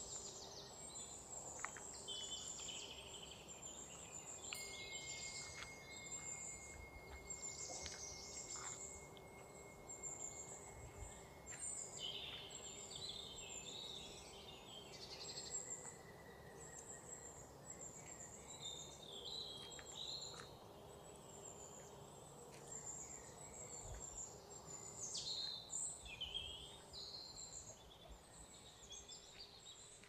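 Several small birds singing and chirping, short high phrases one after another, over a faint steady outdoor background.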